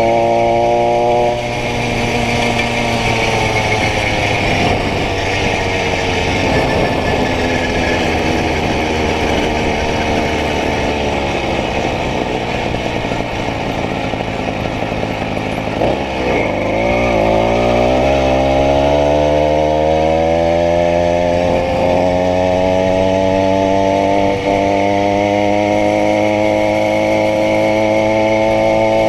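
Small 80cc two-stroke bicycle engine running at high revs. Its pitch drops shortly after the start and sinks slowly, dips sharply about halfway through, then climbs back and holds high and steady.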